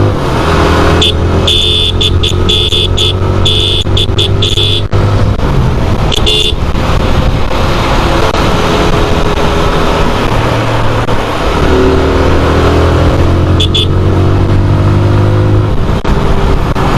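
TVS Apache RTR 160 single-cylinder motorcycle engine pulling away and rising in pitch through the gears, twice, under heavy wind rush on the microphone. Short horn beeps sound in quick bursts during the first few seconds and again briefly near the end.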